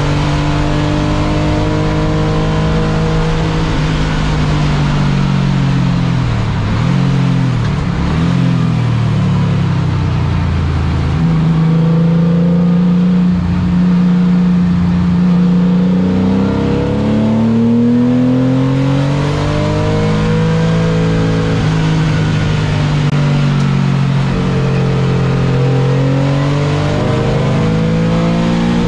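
A car engine driven hard on a race track, its pitch climbing under acceleration and dropping sharply at gearshifts and when lifting off, then climbing again several times over. It holds a high, steady pitch for a few seconds in the middle.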